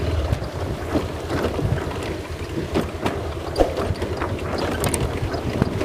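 Bajaj Pulsar 220F's single-cylinder engine running at low revs as the motorcycle rides slowly over loose rocks, with irregular knocks and clatters from the tyres and bike on the stones and wind on the microphone.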